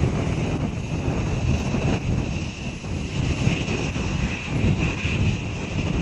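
Jet airliner engines running: a steady, heavy rumble with a high whine held above it.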